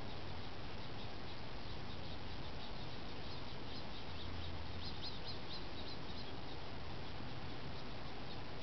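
Small birds chirping over a steady background hiss, the chirps coming in short high runs, the busiest about five seconds in.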